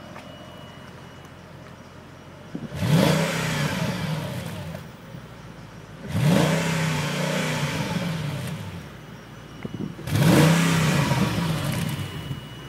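2003 Mercedes-Benz SL55 AMG's supercharged 5.4-litre V8 idling, then revved three times through the exhaust, each rev a quick rise held for about two seconds before falling back to idle.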